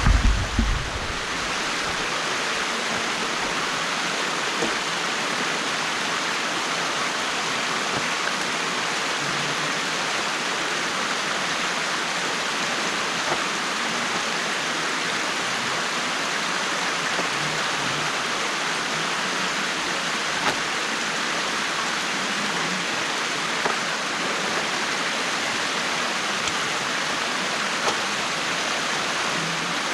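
Water rushing steadily at a beaver dam, with a brief low thump at the very start and a few faint ticks later on.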